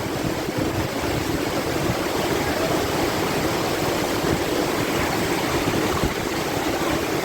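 Waterfall rushing and splashing, a steady, loud wash of falling water.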